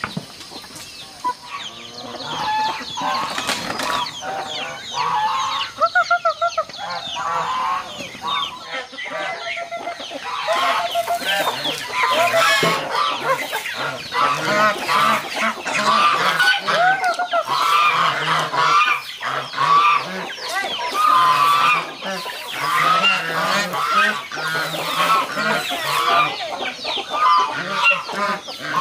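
A flock of chickens clucking and calling, many short overlapping calls at once.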